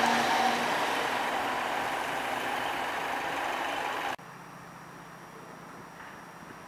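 A passenger multiple-unit train running past and moving away, its running noise fading steadily. About four seconds in it cuts off suddenly, leaving faint, steady background noise.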